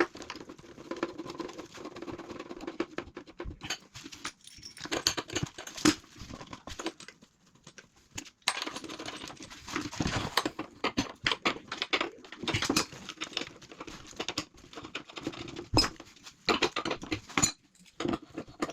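Plastic waste pipe fittings being handled and worked into place: irregular clicks, knocks and stretches of scraping.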